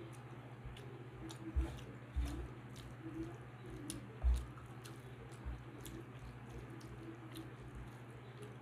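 Close-miked chewing of a mouthful of rice with dal and mashed potato: wet mouth clicks and squishes, with soft squelches of fingers mixing rice on a metal plate. A few low thumps stand out, the loudest about four seconds in.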